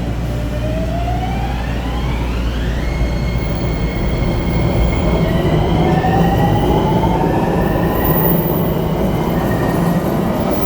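Miami Metrorail train pulling out of the station, its electric traction motors whining up in rising steps over a steady rumble.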